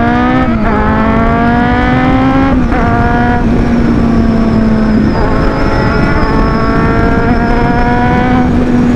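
Superbike with an SC-Project aftermarket exhaust accelerating hard through the gears. The engine note climbs, then drops at each of about four upshifts, with wind noise from riding. It is a very loud exhaust note.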